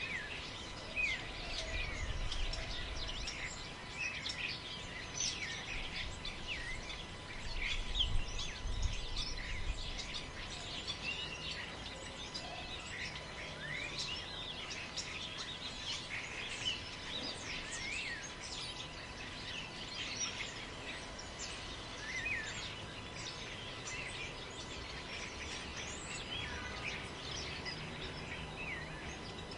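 Wind in the trees, a low rumble that gusts a couple of times in the first ten seconds, under a dense chorus of many birds chirping and calling throughout.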